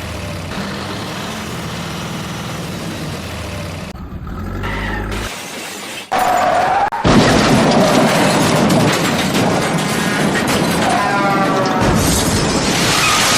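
Background music, then about six seconds in a sudden loud crash with shattering and booming sound effects, followed by a loud noisy din that lasts to the end.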